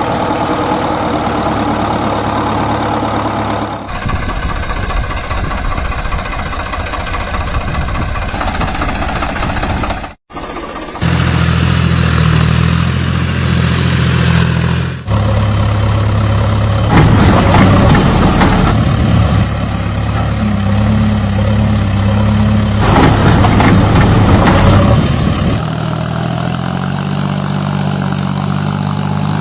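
Heavy vehicle engine sounds, tractor or JCB digger type, running and idling in several spliced stretches that change abruptly, with a brief drop to silence about ten seconds in.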